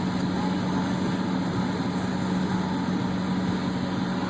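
Steady hum of a car idling, heard from inside the cabin.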